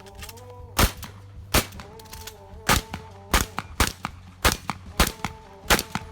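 Pump-action Remington 870 shotgun firing a string of about eight shots, irregularly spaced roughly half a second to a second apart, with fainter clicks between some shots from the pump being worked.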